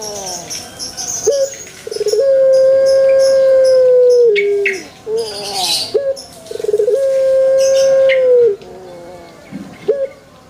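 Male Barbary dove (burung puter) cooing in repeated phrases. A short rising note leads into a long, steady coo that opens with a quick stutter and drops at the end, heard twice, with softer falling notes between. Faint high chirps of small birds come through in the background.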